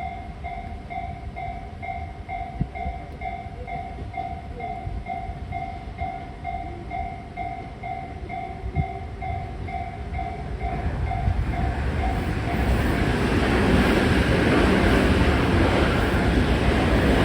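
Japanese level-crossing warning bell dinging about twice a second. About eleven seconds in, a Tobu Tojo Line electric train arrives and passes, and its steadily louder wheel and rail noise drowns out the bell.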